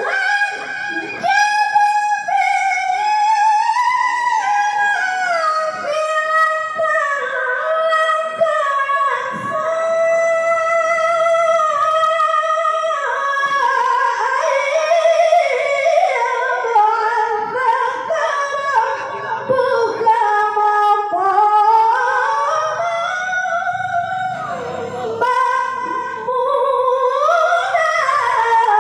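A woman reciting the Quran in the melodic tilawah style: one high voice holding long, ornamented notes that glide up and down in pitch, with only short breaks for breath.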